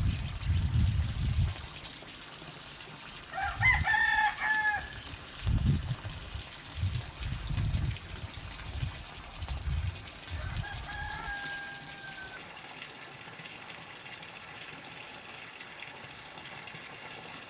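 A rooster crowing twice: a louder crow about four seconds in and a fainter one around ten seconds in. Dull low thuds and rumbles come and go in the first part.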